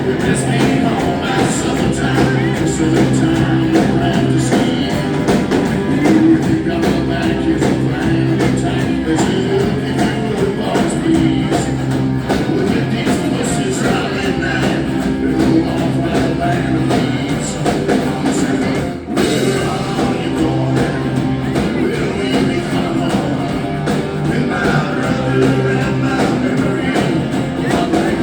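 Live rock band playing an instrumental break between sung verses, with a short drop in level about two-thirds of the way through.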